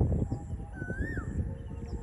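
A single bird call about a second in, a whistle that rises and then swoops down. It sits over a steady, uneven low rumble.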